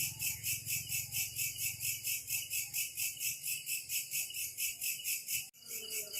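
Rhythmic high-pitched insect chirping, about four or five pulses a second, with a low hum beneath. A brief dropout comes near the end, after which a faint steady whistle-like tone joins the chirping.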